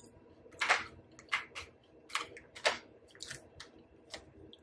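A person chewing food close to the microphone: about ten short, irregular crunches and wet mouth clicks, the loudest about a second in.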